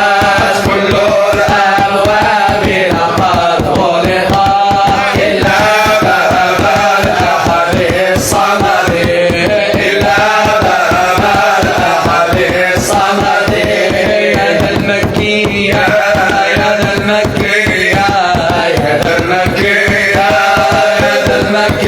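Arabic devotional song (nasheed) with a melody over a fast, steady hand-percussion beat.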